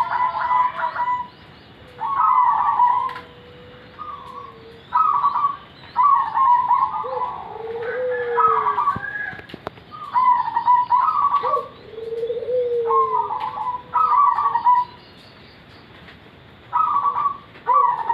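Zebra doves cooing, short phrases of staccato coos repeated every second or two with brief gaps, the birds answering one another.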